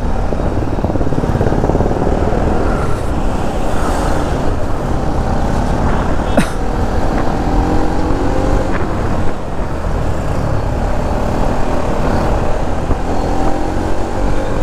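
Bajaj Pulsar NS200 single-cylinder motorcycle engine running on the road under the rider, with a steady rumble of wind and traffic. The engine pitch climbs twice as the bike accelerates, once around the middle and again near the end.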